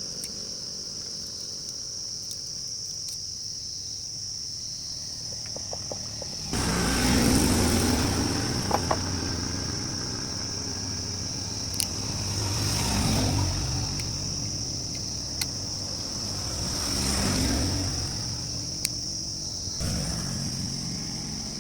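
A motorcycle engine, here a Yamaha FZ150, starts suddenly about a third of the way in and keeps running, rising and falling in revs several times. A steady high-pitched tone lies under it throughout.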